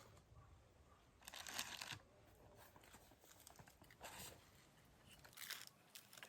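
Faint rustling and crinkling handling sounds in three short bursts, the longest about a second in and two briefer ones later, over near-quiet.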